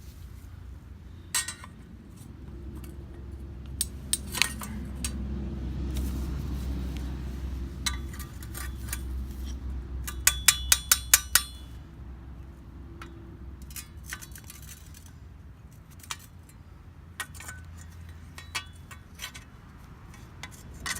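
Metal-on-metal clinks and taps from hand tools at work, scattered, with a quick run of about eight taps a little past halfway, the loudest sound. A steady low hum runs underneath.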